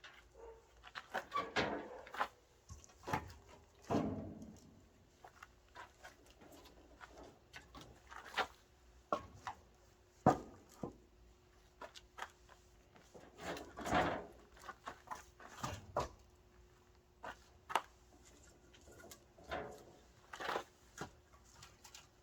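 Irregular knocks and clunks of hard objects, a dozen or so scattered through the time, with a faint steady hum underneath.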